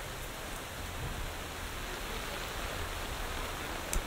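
Steady rain falling on dense tropical foliage, an even hiss with no change in strength. A single sharp tick sounds near the end.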